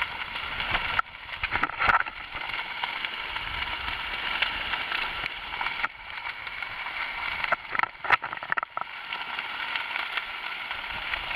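Steady rush of wind and water as a Nacra 5.5 sailing catamaran runs fast through choppy waves. A few sharper splash-like hits come about two seconds in and again around eight seconds, and the noise dips briefly a few times.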